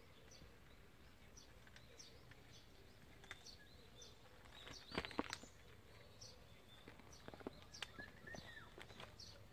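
A small bird chirping over and over, faint: short high chirps, about one or two a second. A few faint clicks and taps come about halfway through.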